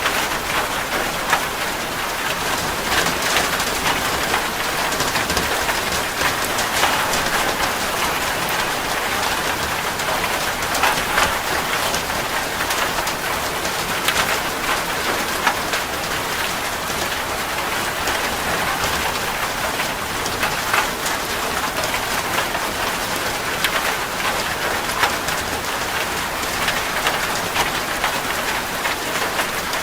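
Steady rain falling on a surface, an even patter with many separate drops landing throughout.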